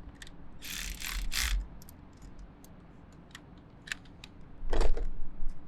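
Irregular metallic clicks and rattles from battery terminal hardware and hand tools being handled, with a short scraping noise about a second in and a louder clunk near the end.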